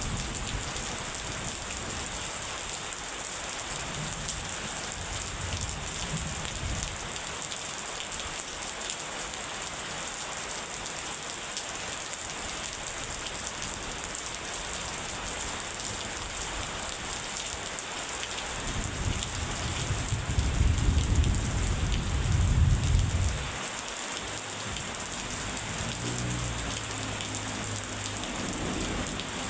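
Steady rain falling, with thunder rumbling low underneath. A faint rumble comes early, a long loud roll of thunder about two-thirds of the way through stops fairly suddenly, and a softer rumble follows near the end.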